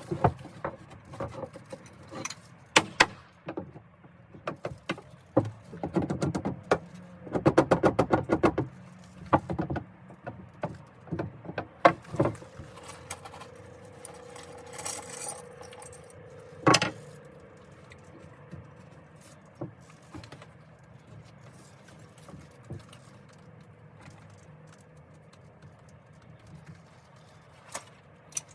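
Construction work sounds while deck boards are set in place: scattered sharp knocks and clicks with light metallic rattling, and a quick run of repeated strokes about eight seconds in.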